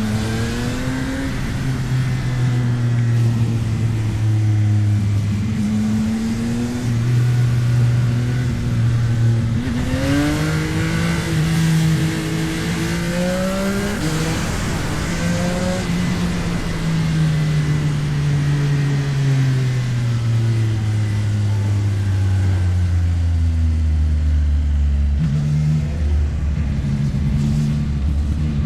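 CFMOTO 675NK motorcycle's inline three-cylinder engine under way. It pulls up through the revs about ten seconds in, then winds down slowly as the bike rolls off, and climbs again near the end, with wind rushing over the microphone as the revs rise.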